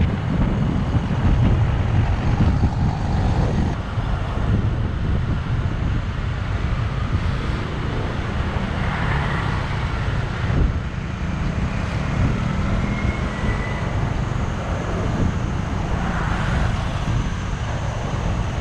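Motor scooter ridden along a road: its engine runs with a steady low hum under road and traffic noise.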